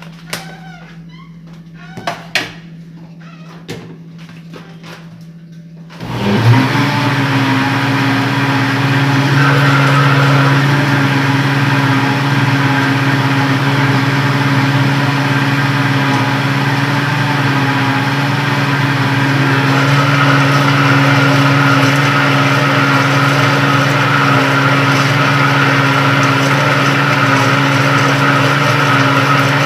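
A few clicks and knocks, then about six seconds in a countertop blender switches on and runs steadily with a loud motor hum, blending the pie batter after a spoon of baking powder has been added.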